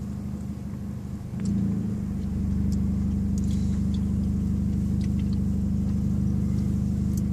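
Car running, a steady low hum that grows louder about a second and a half in and then holds level, with a few faint small clicks over it.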